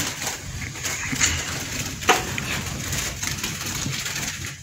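Birds rustling and calling up in the rooms, with a few sharp knocks. The loudest knock comes about two seconds in.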